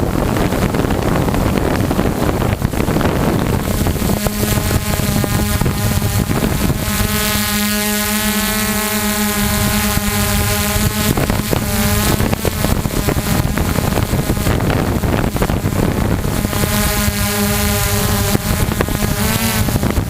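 Multirotor drone's motors and propellers running as a steady buzzing hum, with wind rushing over the onboard microphone. The hum fades into the wind noise for a few seconds in the middle and returns, wavering slightly in pitch near the end.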